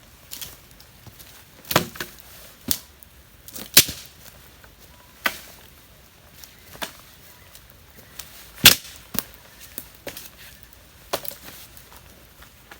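A series of sharp knocks and clicks, about a dozen, unevenly spaced; the loudest come about four seconds and about nine seconds in.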